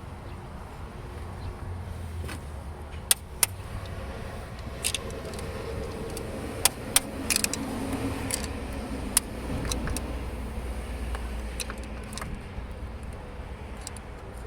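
Scattered sharp metallic clinks and taps of hand tools on engine parts, over a steady low rumble of vehicles.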